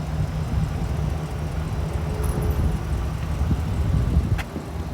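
2013 Chevrolet Silverado 2500HD's 6.0-litre gasoline V8 idling with a steady low rumble. A sharp click comes near the end.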